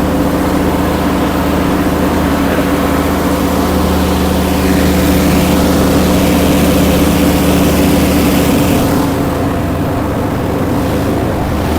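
Mini skid steer engines running steadily at high throttle, a constant engine hum that eases off about eight or nine seconds in.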